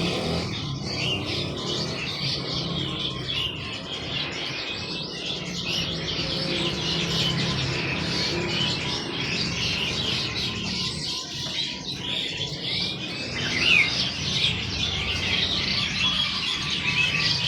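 Many caged songbirds chirping and twittering at once, a dense chorus of overlapping short calls over a low steady hum.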